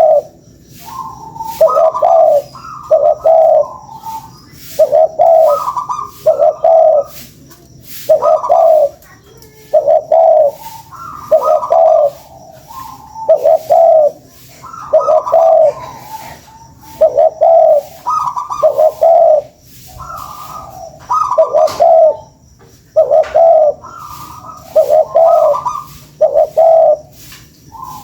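Spotted doves (tekukur) cooing in short phrases of two or three coos, repeating about every two seconds. It is a tekukur lure call, played to set other doves calling.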